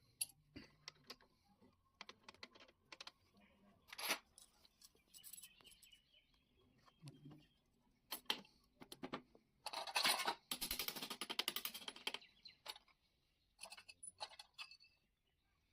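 Small metal engine parts and hand tools clicking and clinking during hand assembly of a Honda CD 100 motorcycle engine. The taps come one at a time, then a burst of rapid clicking about ten seconds in lasts some two seconds.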